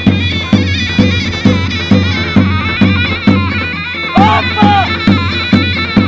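Davul and zurna playing a folk dance tune: a shrill, reedy zurna melody over steady davul beats about two a second.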